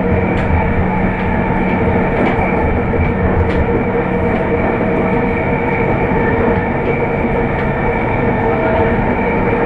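Running noise of a JR East E231-500 series electric commuter train at steady speed, heard inside the car: a continuous rumble of wheels on rail with a steady hum of fixed pitches and a few light clicks.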